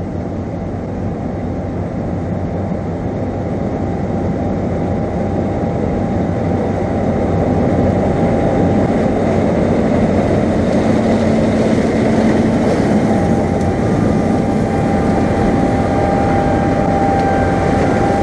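Heavy farm machinery running steadily, an engine drone with a constant high whine over it, growing a little louder about eight seconds in.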